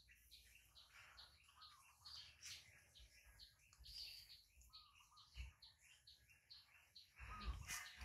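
Near silence, with faint short high bird chirps repeating a few times a second.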